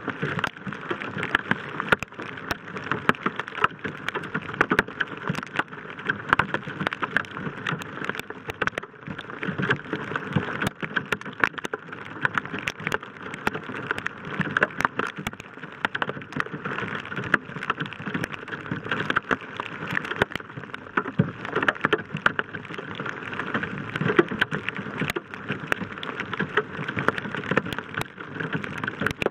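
Heavy rain pelting a roof-mounted camera and the truck roof around it: a dense, steady patter of sharp drop hits over a hiss.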